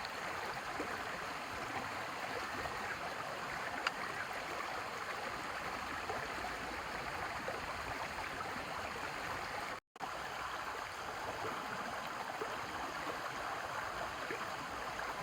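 River water rushing steadily. The sound cuts out for a moment about ten seconds in.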